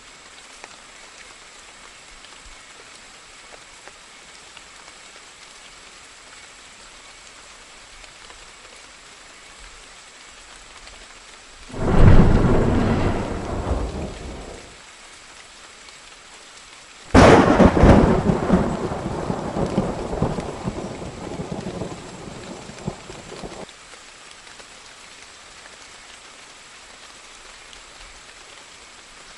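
Steady rain with two claps of thunder: a rumble about twelve seconds in that fades within a couple of seconds, then a sharper crack a few seconds later that rolls on for about six seconds.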